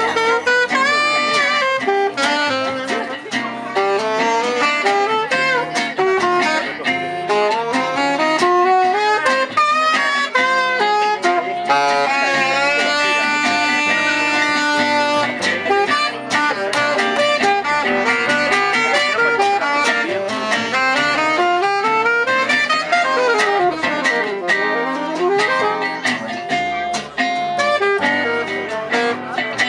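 Live jazz manouche (gypsy jazz) band playing: a fast melodic lead line over a strummed guitar rhythm, with sliding notes about three-quarters of the way through.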